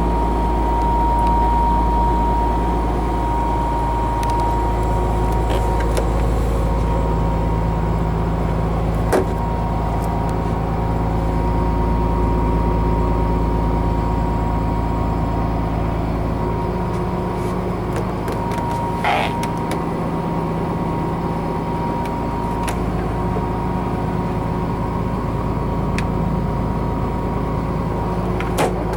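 Cummins ISM turbo diesel of a Blue Bird LTC-40 coach running steadily: a low drone with a constant whine above it, and a few sharp clicks and one short squeak.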